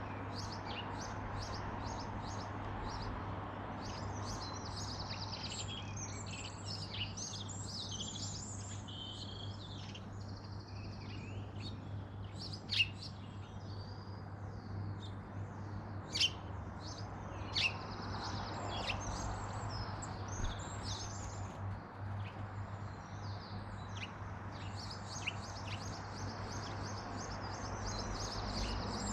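Small songbirds chirping and twittering, with many short high calls overlapping throughout. A few sharp clicks stand out louder, about halfway through, against a steady low hum.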